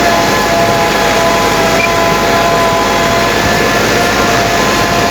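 Tractor engine running steadily under load, heard up close, with a steady whine over the engine noise.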